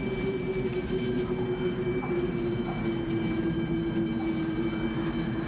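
Tornado wind: a steady rushing roar with a held howling tone that sinks slightly in pitch.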